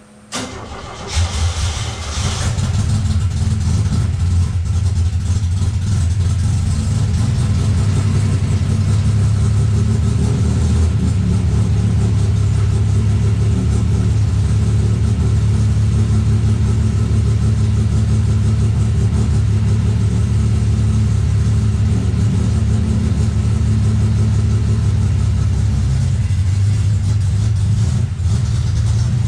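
Chevrolet Opala Gran Luxo engine cold-starting after sitting for almost 20 days. It catches within about a second, revs briefly, then settles into a steady idle. The sound dips for a moment near the end.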